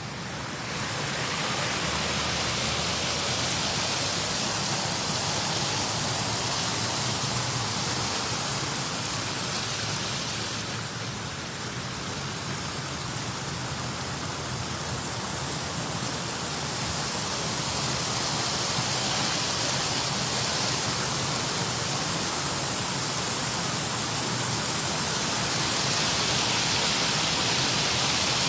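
Small waterfall splashing and rushing steadily. It grows louder about a second in and again near the end.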